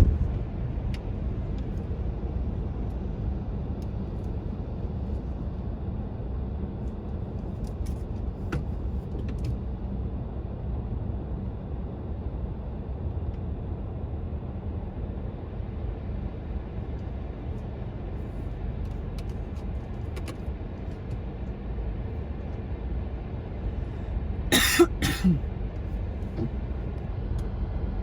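Steady low rumble of a car heard from inside its cabin at a car wash. Near the end come two short, loud, hissing bursts in quick succession.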